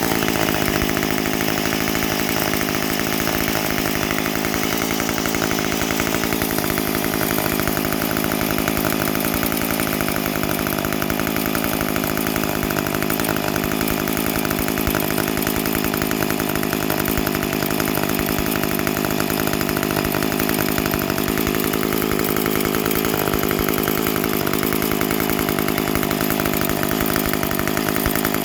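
McCulloch 10-10 chainsaw's 54cc two-stroke engine running steadily on a test run after sitting unused for years.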